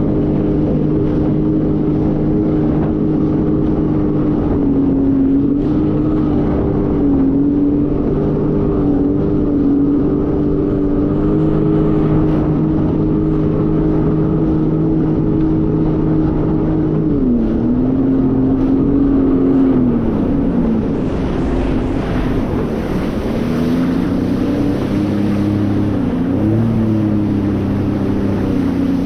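Jet ski engine running at a steady speed, its pitch dropping and coming back up about two-thirds of the way through and briefly again near the end as the throttle eases, with wind and water rushing.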